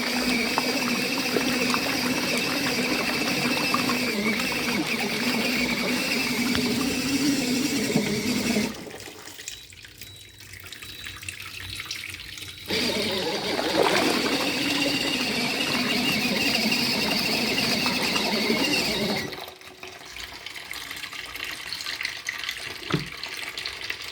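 Mini foldable washing machine's motor running with a steady hum while water churns in the tub. The motor stops about nine seconds in, starts again about four seconds later, and cuts out again near the end, leaving quieter water sounds.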